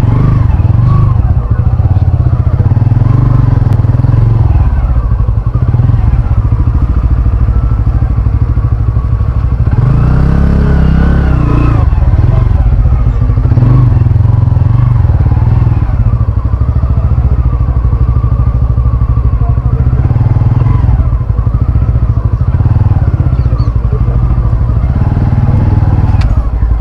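Bajaj Pulsar N160 motorcycle riding along, its single-cylinder engine running under a loud, steady low rumble. The engine pitch rises and falls about ten to thirteen seconds in.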